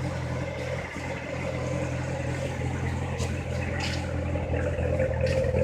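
2015 Corvette Z06's supercharged 6.2-litre V8 idling steadily through its exhaust.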